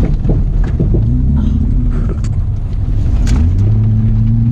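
Holden VS Commodore engine running under load while it is driven around a dirt paddock, its revs stepping up about three and a half seconds in. Scattered knocks and rattles come from the car over the rough ground.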